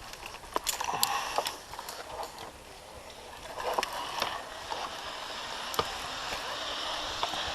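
Scattered metal clicks and rattles of climbing harness gear, carabiners and a pulley trolley, shifting on a steel safety cable, with a hiss building in the second half.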